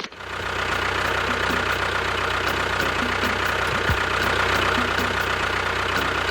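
Small electric motor of a DIY mini tractor running steadily: a low hum under a high, even whine, with a light regular ticking. It builds up in the first half second.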